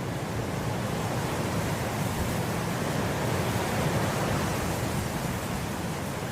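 Wind blowing through grass in a steady rushing hiss that swells gently toward the middle and eases off again.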